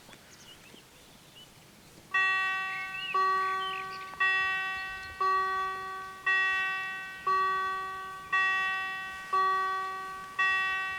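Level-crossing warning bells starting to ring about two seconds in, striking about once a second, each strike ringing out and fading before the next: the crossing has been activated for an approaching train.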